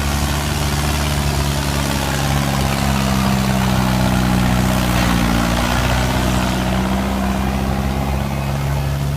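Yanmar 1185S four-cylinder turbo diesel tractor engine running steadily, its pitch lifting slightly about halfway through and settling back.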